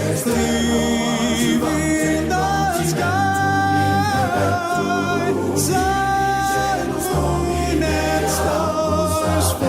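A choir singing a cappella in slow, long-held chords, part of a hymn-like choral piece.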